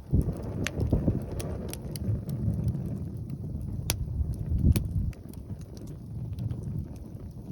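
Strong wind buffeting the phone's microphone in gusts, with scattered sharp pops and crackles from a wood campfire.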